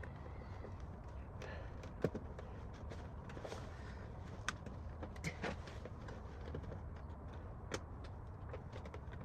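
Scattered light clicks and taps of small metal parts being handled and fitted by hand, the sharpest about two seconds in, over a steady low hum.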